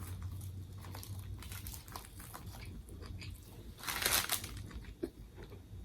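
Soft crinkling and crackling as a banh mi sandwich is handled, with one louder crunchy crackle about four seconds in, over a steady low hum.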